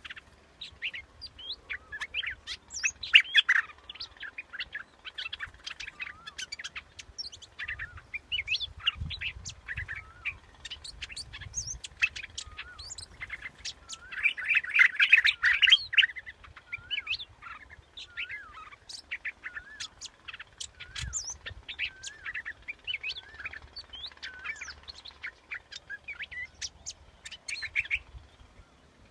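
Bulbul ('nok dok taeng') singing: a string of short, wavering chirps and warbled notes, with a dense, loud flurry of song about halfway through. This is a decoy call recording used to lure the same species.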